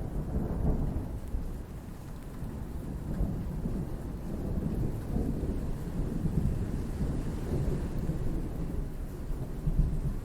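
Thunderstorm: low rolling thunder rumbling on under steady rain, swelling briefly just before the end.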